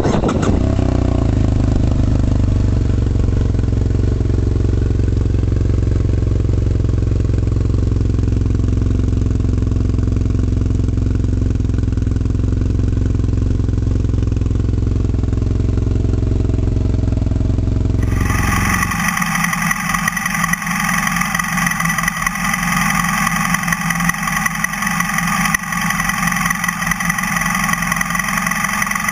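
BMW F 800 ST parallel-twin motorcycle engine running steadily through its exhaust, with no revving. About 18 seconds in, the sound changes abruptly to a different recording with a brighter, higher-pitched steady engine note.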